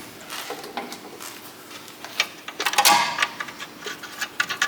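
Workshop clatter of tools and metal car parts being handled: a run of small clicks and knocks, with a louder clattering knock about three seconds in.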